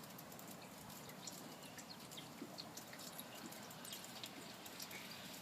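Faint light rain with scattered irregular drips and ticks of water over a soft steady hiss.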